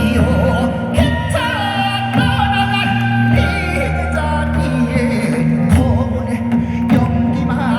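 A song being sung over instrumental accompaniment, the voice holding and bending long notes above steady bass notes.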